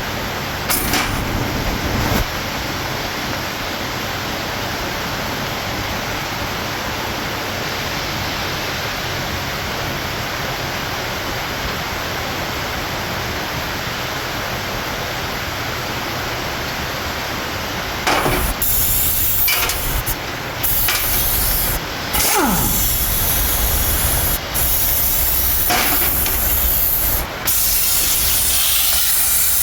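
A steady spraying hiss. About two thirds of the way through it grows louder and starts and stops in several bursts with short breaks.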